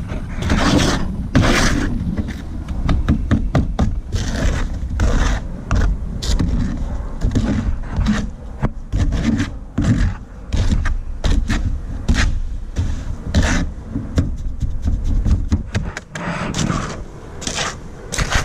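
A tool scraping and pushing through wet sand-and-Portland-cement mortar in a mixing box, in repeated irregular strokes as the loose mix is worked together.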